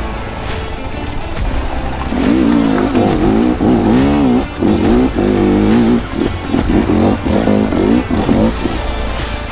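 Dirt bike engine revving hard in repeated surges, the pitch climbing and dropping with the throttle as the bike works up a steep hill climb.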